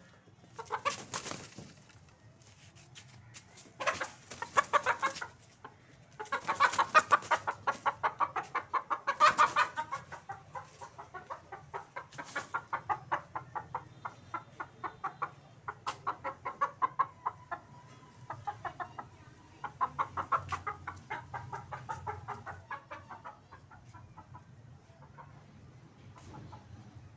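Hen clucking in bouts of rapid, evenly spaced clucks, about four a second, loudest a few seconds in and quieter in later bouts.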